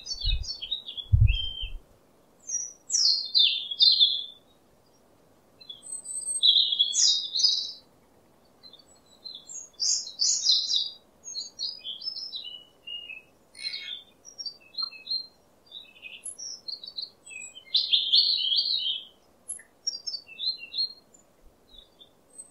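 Small birds chirping and singing in short, high phrases with brief pauses between them. A few low thumps sound in the first couple of seconds.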